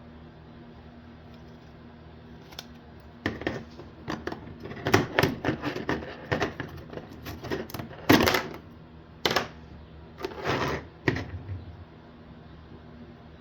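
Irregular clicks, taps and knocks of hard 3D-printed PLA case parts being handled, turned over and set down, in a run of about nine seconds.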